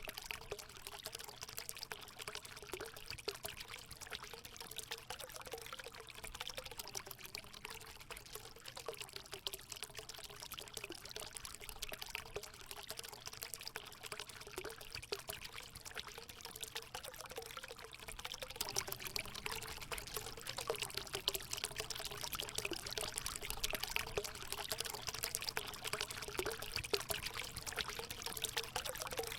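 Water running and splashing into a hot spring pool, a steady pouring trickle with light gurgling, a little louder in the second half.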